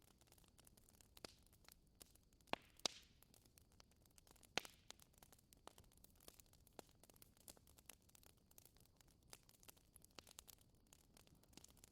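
Wood fire crackling: irregular sharp pops and snaps over a faint hiss, with a few louder pops between about two and a half and five seconds in.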